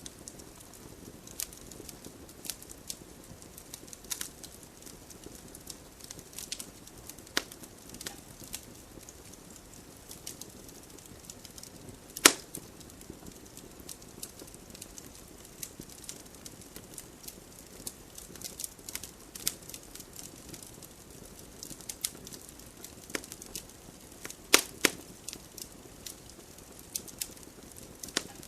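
Wood campfire crackling: irregular sharp pops and snaps over a low steady hiss, with louder pops about twelve seconds in and a close pair near twenty-five seconds.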